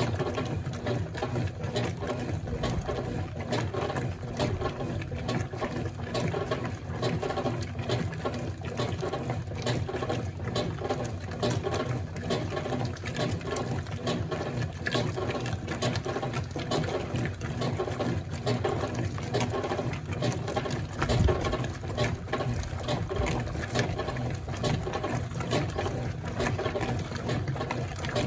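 Consul Facilite 11.5 kg CWG12 top-load washing machine in its wash cycle, its motor running steadily as it churns water and a load of rags, with constant sloshing and small clicks.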